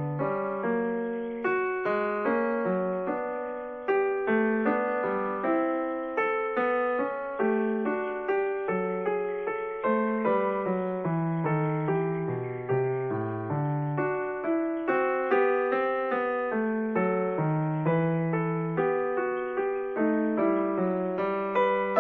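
Piano music: a gentle melody over a moving bass line, each note struck and fading.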